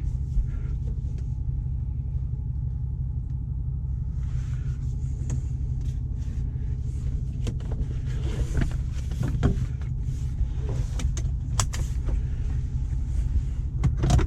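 Mercedes-Benz 420 SEL's V8 running while still cold, a steady low rumble, with scattered sharp clicks and knocks in the second half.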